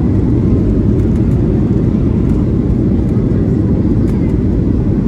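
Airliner cabin noise during landing: the steady low rumble of the jet engines and rushing air, even and unbroken.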